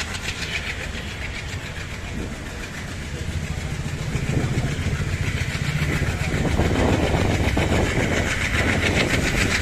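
Passenger train running, a steady rumble with faint clatter of the wheels on the rails, growing louder from about halfway.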